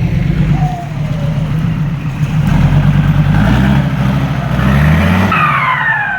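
Turbo-diesel dump truck engine pulling hard and rising in revs, then a howling turbo whine that falls in pitch near the end as the throttle comes off.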